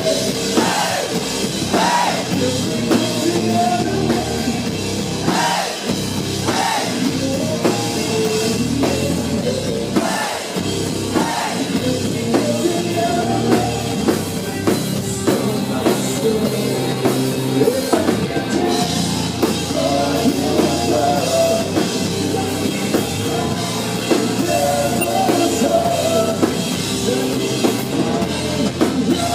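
Rock band playing live and loud, with a pounding drum kit under amplified instruments.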